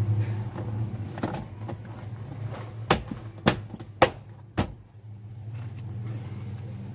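Four sharp clicks about half a second apart from a car's repaired power window switch being pushed and pulled, now operating with a light touch, over a steady low hum.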